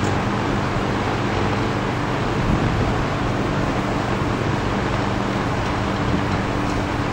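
Eskimo 20136T single-speed box fan running at full speed, its motor freshly oiled: a steady rush of air over a low motor hum.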